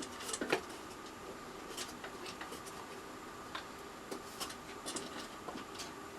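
Light taps and clicks of thin plywood pieces being handled and fitted together, a few of them near the start, over a faint steady hum.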